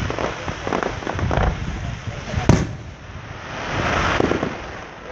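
Fireworks going off: scattered crackling, one sharp bang about halfway through, then a swell of crackling hiss that rises and fades.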